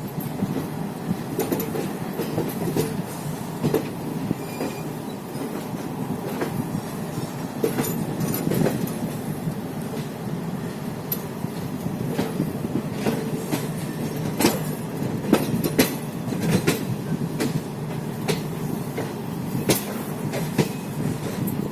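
Passenger train coaches rolling slowly into a station: a steady rumble with irregular clanks and clicks as the wheels pass over rail joints.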